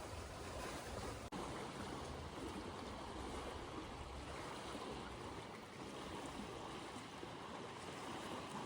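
Small lake waves lapping steadily against the shore, a soft continuous wash of water, with a split-second dropout about a second in.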